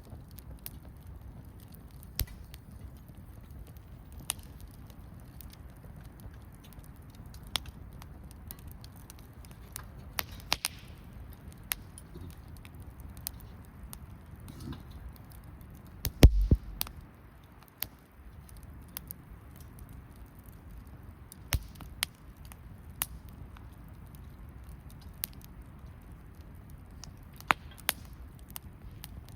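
Wood campfire burning, with scattered sharp crackles and pops over a low steady rush. One louder thump comes about sixteen seconds in.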